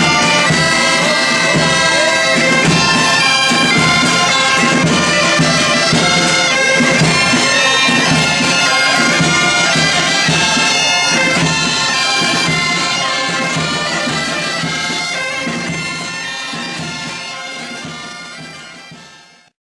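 Loud reed pipes playing a tune over a drum beat, fading out over the last several seconds.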